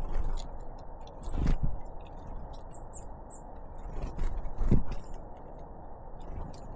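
Small tits feeding at a feeder close to the microphone: scattered short, very high call notes and light ticking and pecking, with two loud thumps, about a second and a half in and again some three seconds later, as birds land or knock against the feeder.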